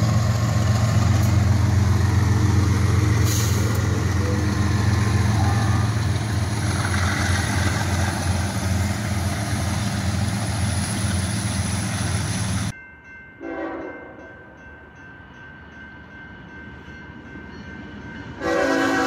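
Freight train passing close with BNSF diesel locomotives running, a deep steady engine drone over the rumble of the coal cars. About 13 seconds in the sound cuts off abruptly to a quiet stretch, and it comes back loud near the end as another locomotive passes.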